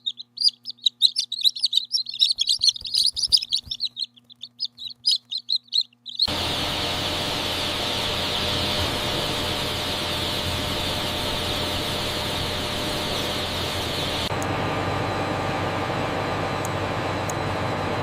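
A crowd of newly hatched chicks peeping in rapid, high chirps. About six seconds in, this cuts off abruptly to a steady rushing machine noise, which changes tone slightly near the end.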